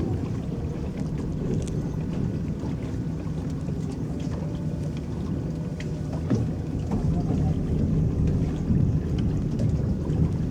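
An electric boat's paddles churning the lake water, a steady low rush with small splashes and ripples.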